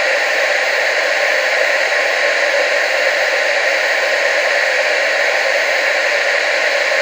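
Analog TV static hiss, a steady even noise with no change in level, centred in the upper-mid range with almost no bass.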